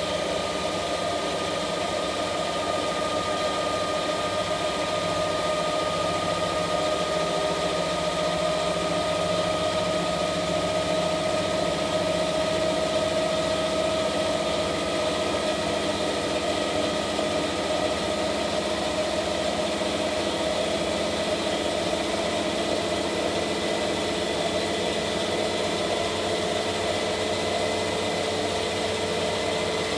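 Washing machine running: a steady mechanical hum and hiss with a high whine that drifts slowly in pitch.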